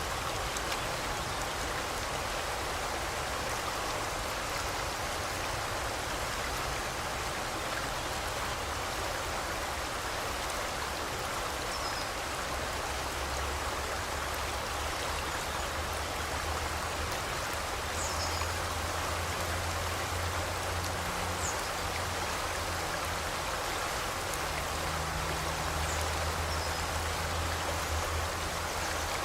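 A river stream flowing steadily, a dense, even rush of water, with a few faint, brief high bird chirps. A low steady hum joins about halfway through.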